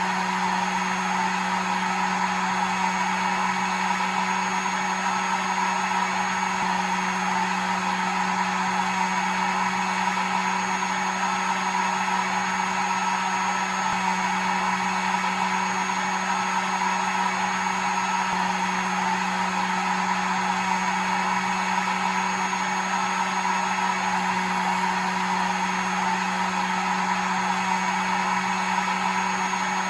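Hair dryer running steadily: an even blowing rush over a low motor hum, with a thin high whine.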